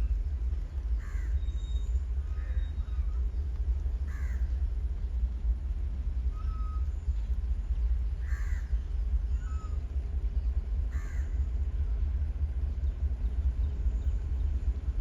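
Crows cawing about five times, spaced a few seconds apart, over a steady low rumble.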